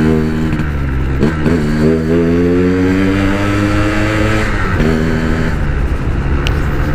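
Yamaha RX-King's 135 cc two-stroke single running on the move: its pitch drops about a second in, climbs steadily as the bike accelerates, drops again past the halfway mark, then holds steady.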